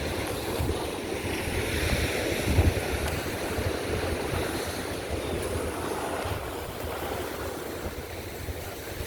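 Sea waves washing on a beach, with wind buffeting the microphone in gusts; the surf swells about two to three seconds in.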